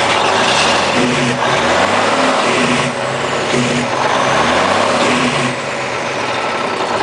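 Cummins truck diesel engine, just started, revved up and down several times, then dropping back to a steady idle about five and a half seconds in.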